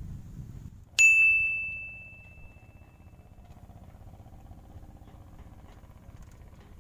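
A single metallic ding about a second in, one clear high tone that rings on and fades over about two seconds.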